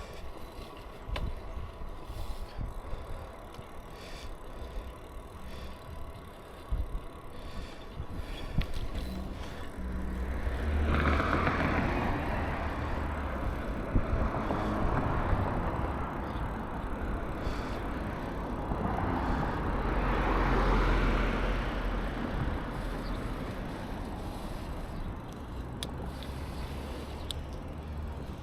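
Riding noise from a bicycle on a road: steady wind rumble on the microphone, with two louder swells of traffic noise about ten and twenty seconds in.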